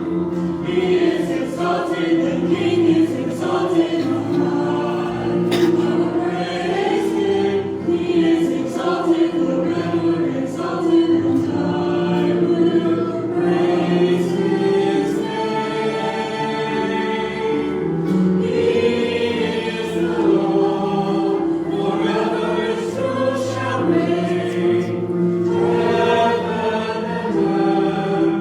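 A church choir singing, with long held notes and voices rising and falling together.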